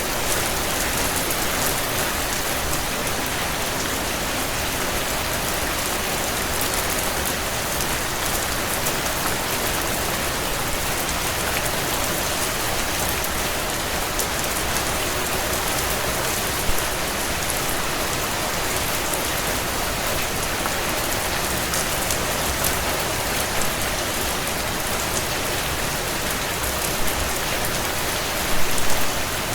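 Heavy rain drumming steadily on a tin roof, a dense even hiss with a few brief louder spatters near the end.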